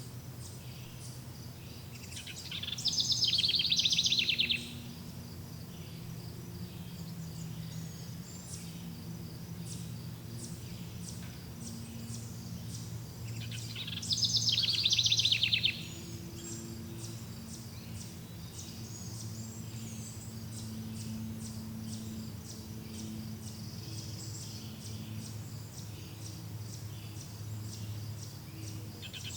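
Nature ambience: a rapid, high trill lasting about two seconds sounds twice, about two and a half seconds in and again about fourteen seconds in, over a continuous fast chirping of insects and a steady low background hum.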